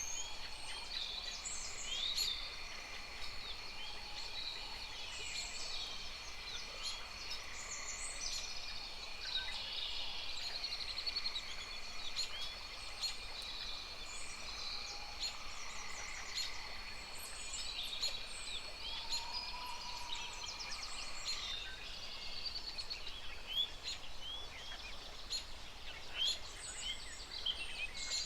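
Many birds chirping and calling at once in a dense chorus of short chirps and trills. Under it runs a steady high-pitched whine that stops about three quarters of the way through.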